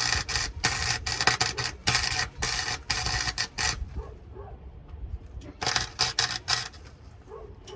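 Welding arc crackling on a truck exhaust pipe in two runs: a long one of about three and a half seconds, then a short one of about a second near the end.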